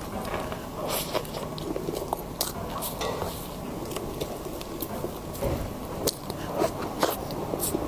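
Close-miked eating ASMR: biting and chewing, with many short, irregular crisp clicks and crackles.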